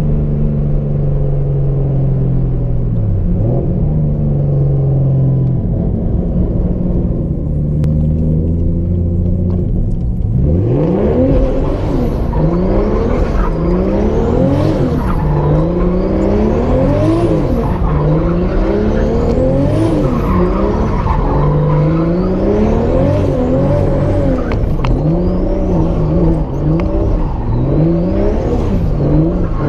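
Turbocharged Nissan RB straight-six in an S13 240SX, heard from inside the car. It holds a steady low note for about ten seconds, then the revs climb and drop again and again as the car accelerates and shifts. A thin high whine rises with each pull.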